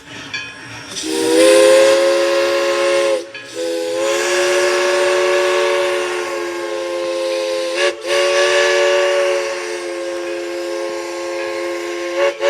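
Steam locomotive chime whistle blowing a chord of several tones, starting about a second in and held long, with two very brief breaks, over hissing steam.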